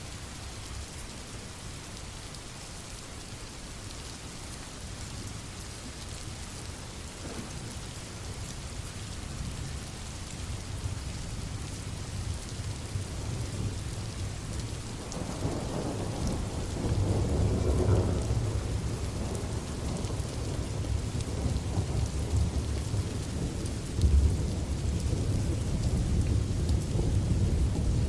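Steady rain with rolling thunder: a low rumble swells about halfway through and peaks a few seconds later, and a sharper low thunder clap comes near the end.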